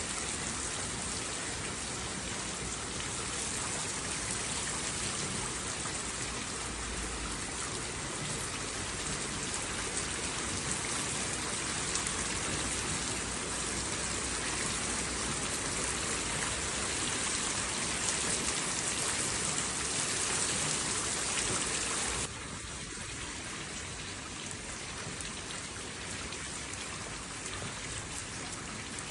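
Steady rain falling, an even dense hiss of drops. About three-quarters of the way through it drops suddenly to a softer level and carries on steadily.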